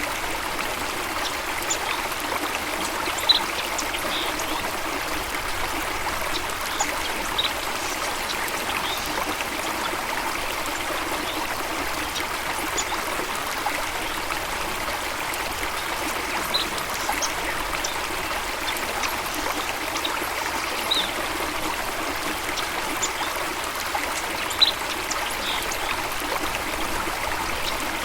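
Water of a stream flowing and trickling steadily, with a few brief high plinks scattered through it, the loudest about three seconds in and again near the end.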